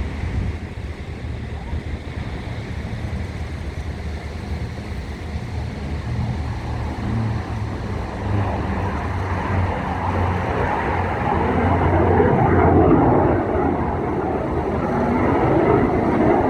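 Aircraft engine noise swelling as a plane approaches, over a steady low hum; the rushing sound grows louder from about halfway through and peaks near the end.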